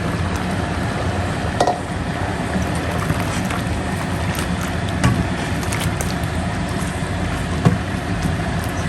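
Steady rushing kitchen background with a few sharp clinks, as cow meat is added to a pot on the stove.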